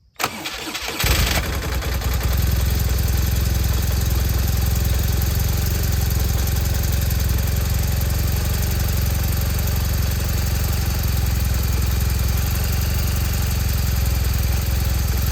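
2005 BMW R1200ST's flat-twin boxer engine cold-started: the starter cranks briefly and the engine catches about a second in. It then settles into a steady idle with a deep low rumble.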